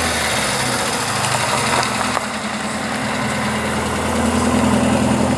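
Car engine idling steadily with a low hum, getting a little louder about four seconds in.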